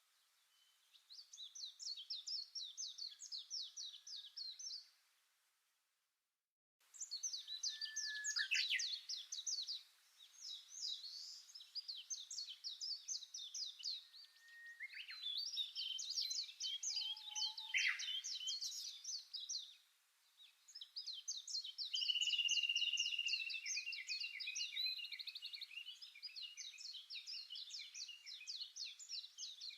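Songbirds singing: a series of fast, trilling song phrases a few seconds each, high-pitched, one after another with short pauses. The sound drops out completely for about a second, roughly six seconds in.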